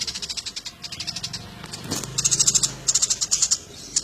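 Sparrows chirping in fast runs of high notes, in several bouts with short breaks between them, over a faint steady low hum.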